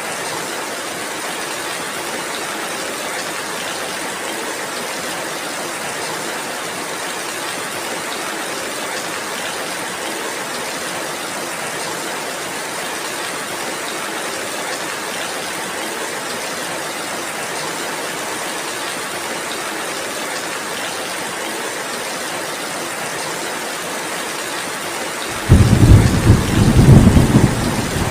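Steady heavy rain hissing, then near the end a sudden loud rumble of thunder that rolls on and is the loudest thing heard.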